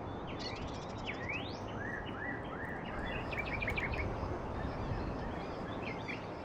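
Birds calling over a steady rush of outdoor background noise. There are rising whistled sweeps in the first second and a half, a run of short repeated rising notes about two seconds in, and a quick series of clipped notes around three to four seconds.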